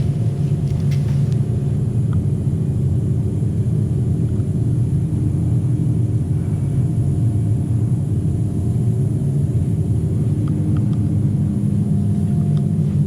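Steady low rumble of a motor vehicle running, a constant drone with no changes in pitch.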